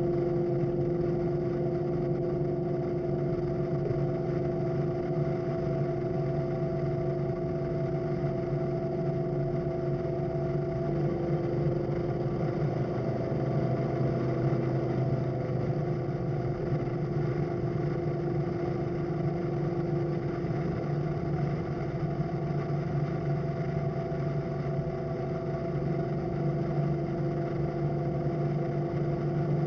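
Suburban's engine, fitted with an Edelbrock carburetor, running steadily as it drives along, a continuous drone whose pitch shifts slightly about eleven seconds in.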